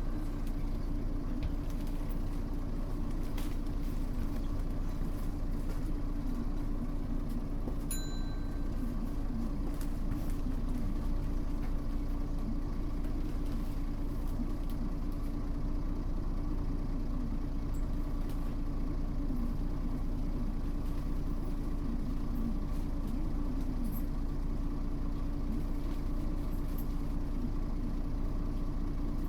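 Mitsubishi Fuso U-MK618J route bus running steadily, its engine hum even throughout with no revving. A brief high beep sounds about eight seconds in.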